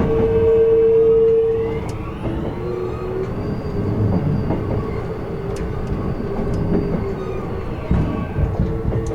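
Kintetsu 16600 series electric train running, heard from inside at the car end: a steady rumble of wheels on rail under a strong electrical hum from the Hitachi traction equipment. About two seconds in the hum gives way to a whine that rises in pitch and then holds, with a few sharp clicks from the rails.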